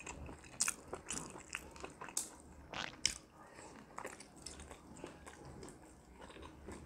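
People biting and chewing kodo millet-flour momos, close to the microphone: soft, irregular mouth clicks and wet smacks.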